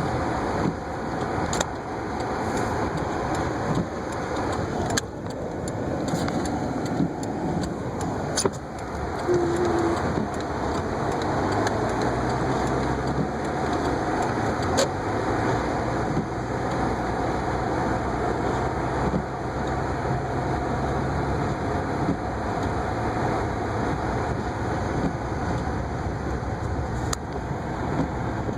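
Steady road noise inside a car driving through a snowstorm: engine and tyres running on, with a few scattered clicks and knocks.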